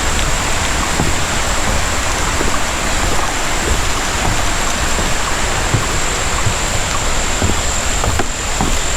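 Steady rushing of creek water flowing over rocks.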